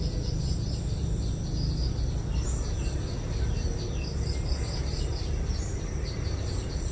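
Outdoor ambience: many short, high chirps repeat throughout, like crickets or other insects, over a steady low rumble.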